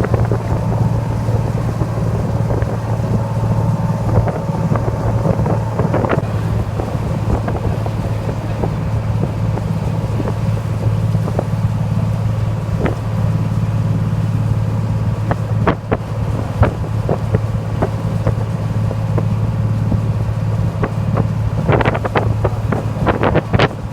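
A steady low engine drone with wind buffeting the microphone, and a cluster of knocks and clicks near the end.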